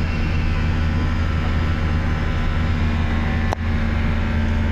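Volvo B9TL double-decker bus's diesel engine running with a steady low drone, with a single brief click about three and a half seconds in.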